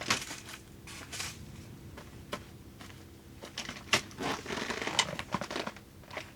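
Irregular clicks, taps and scratchy rustling of things being handled, with a busier stretch of rustling just past the middle.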